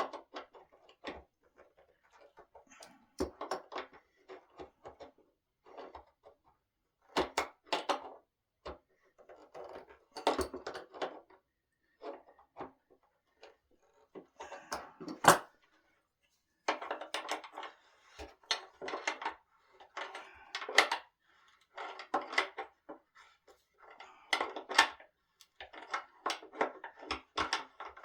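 Handling and assembly noises from a solid-wood dining table: wooden parts and hand tools knocking, clicking and scraping in short irregular bursts with pauses between them. One sharp knock about halfway through is the loudest.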